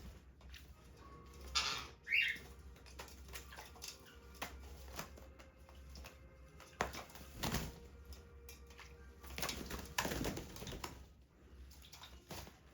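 Pet parrot flapping its wings in several short bursts while bathing, with one short squawk about two seconds in.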